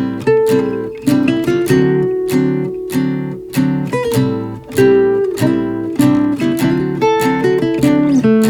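Acoustic guitar music: chords and notes strummed and plucked in a steady rhythm, two to three strokes a second.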